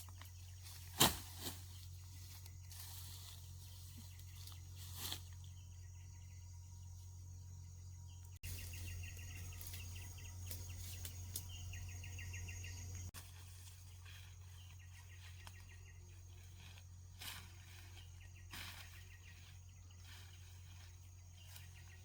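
Quiet outdoor ambience with a steady low hum and a few sharp knocks, the loudest about a second in. A pulsing high chirr runs through the middle.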